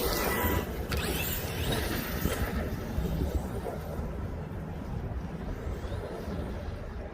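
Wind rumbling on the microphone over the steady running noise of an Arrma Outcast 8S RC stunt truck being driven. A higher hiss is strongest in the first second and fades over the next few.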